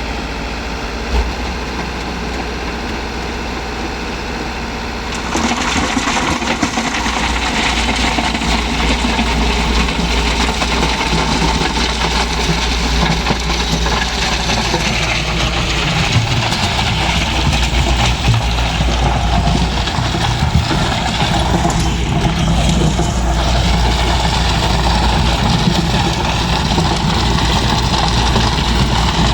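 Tractor engine running steadily, stepping up louder about five seconds in.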